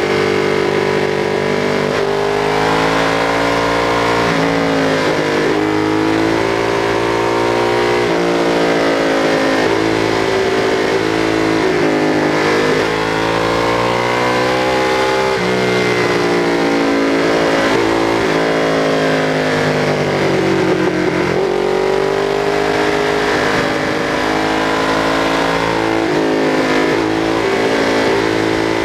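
Ducati 848's L-twin engine pulling hard on a twisty road, the revs repeatedly climbing and falling with abrupt changes at the gear shifts, over a steady rush of wind and road noise.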